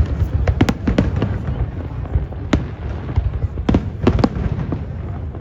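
Fireworks display: irregular sharp bangs and pops, a few close together, over a steady low rumble.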